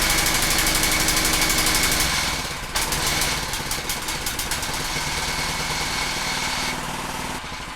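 Freshly installed Predator small engine running on choke with the throttle half open, just after a first start. It falters about two and a half seconds in, nearly dying, then picks up and keeps running, and it settles to a lower level near the end.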